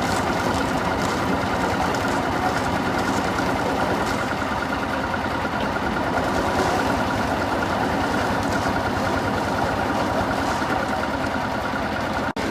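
Heavy construction machinery running steadily, a continuous engine drone with a fine even pulsing; the sound drops out for an instant near the end.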